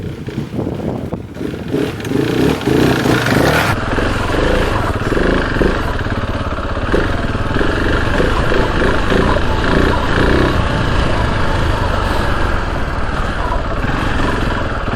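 KTM 690 Enduro R's big single-cylinder engine running under throttle as the bike is ridden along a muddy off-road trail.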